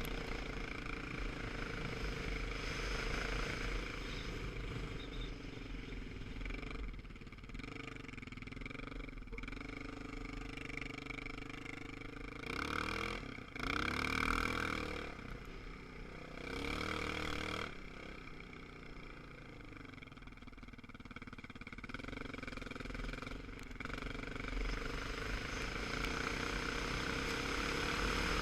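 Motorcycle engine running under way, its pitch rising and falling with the throttle. There are a few brief rises in the middle, and the engine climbs in pitch and loudness near the end.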